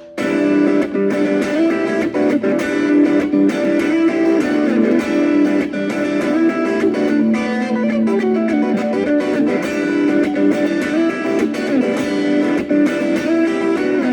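Guitar instrumental: a quick, busy stream of plucked guitar notes over held lower tones, kicking in abruptly right at the start.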